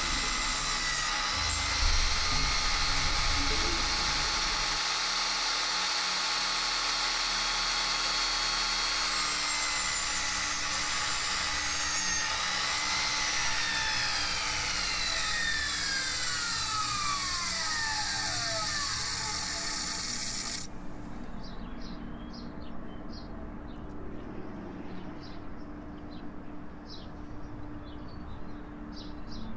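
A power tool running with a steady high whine, its pitch falling as it winds down. About two-thirds of the way through it cuts off abruptly, leaving a quieter background with birds chirping.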